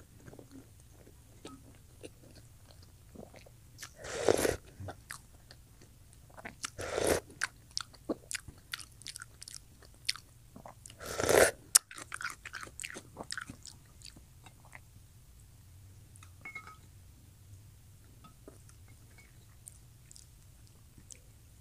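Close-miked eating sounds of a person chewing hard-boiled eggs and instant noodles: steady chewing and biting with small wet clicks. Three louder mouth sounds come in the first half, and the chewing is softer in the second half.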